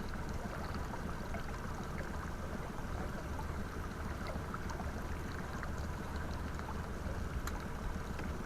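Water gurgling and lapping against a pontoon boat's hull under a steady low rumble, with small scattered ticks.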